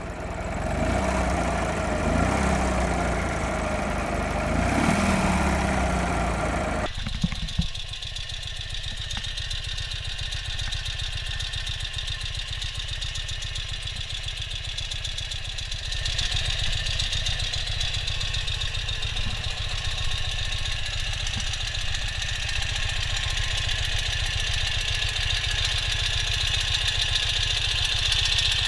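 Ural Classic sidecar motorcycle's air-cooled boxer twin, revved up and back down twice. About seven seconds in the sound changes abruptly to the engine running steadily.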